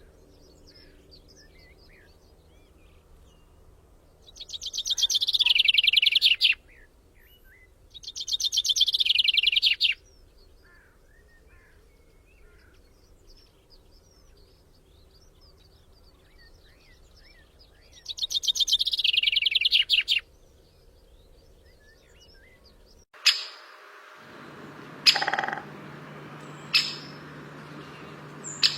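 A songbird singing a fast, even trill of about two seconds, three times, over faint background birdsong. Near the end the sound changes abruptly to a steady low hum with a few sharp clicks.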